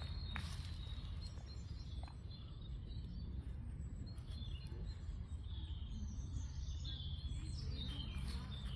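Small birds chirping on and off over a steady low rumble, the chirps coming more often in the second half.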